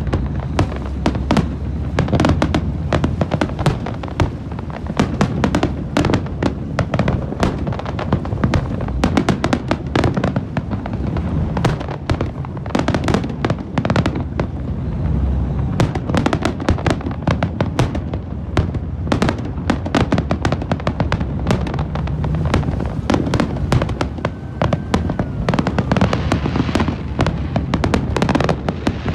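Fireworks display: a dense, continuous barrage of sharp bangs and crackling, many per second, over a steady low rumble.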